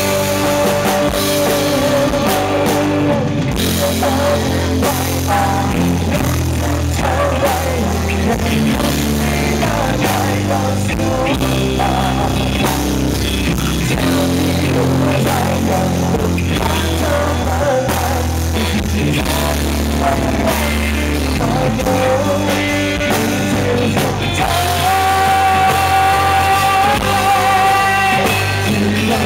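Rock band playing live through an instrumental passage: electric guitar, bass and drums, with a held guitar line near the end.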